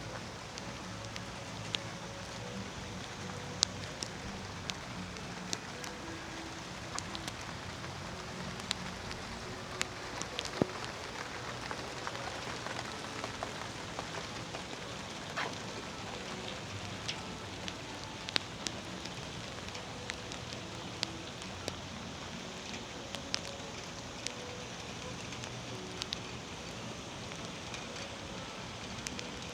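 Steady rain falling, with many sharp, irregular drop ticks close by over the even hiss.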